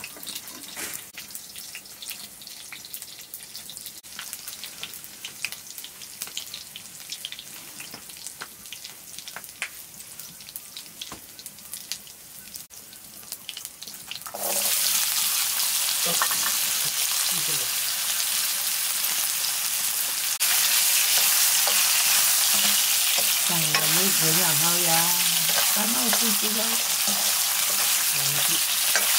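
Light clicks and rustling as hands sort leafy greens. Then, about halfway, a sudden loud sizzling as potato pieces go into hot oil in an iron wok over a wood fire. The sizzle grows louder again a few seconds later as the potatoes are stirred with a ladle.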